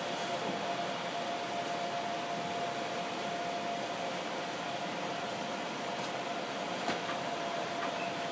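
Steady running noise heard inside an Iyotetsu 3000 series electric train (ex-Keio Inokashira Line) moving slowly along the track, with a constant hum running through it. A single light click comes near the end.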